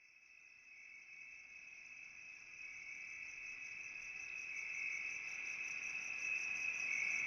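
Insects trilling steadily in a high, even chorus, fading in gradually from silence.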